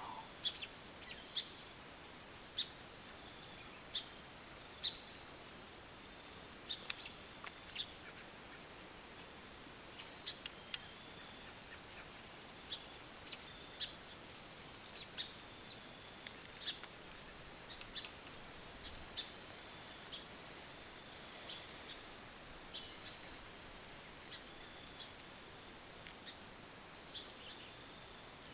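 Small woodland birds giving short, sharp chip calls at irregular intervals, over a faint steady background hiss.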